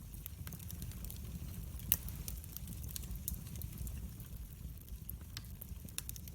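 Wood fire burning in a fireplace: a steady low rumble of flames with frequent sharp crackles, and one loud pop about two seconds in.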